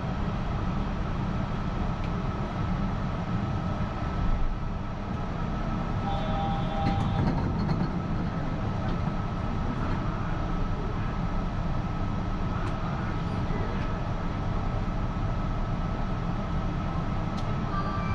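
Yurikamome rubber-tyred automated guideway train running, heard from inside the car: a steady low rumble of the tyres on the guideway with a thin steady whine above it.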